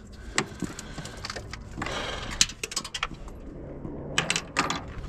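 Scattered light clicks and clanks of tools and gear being handled, with a few louder knocks near the end.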